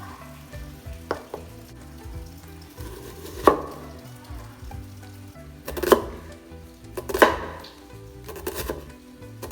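Kitchen prep sounds: about five sharp, irregularly spaced knocks of a utensil during cooking, over quiet background music.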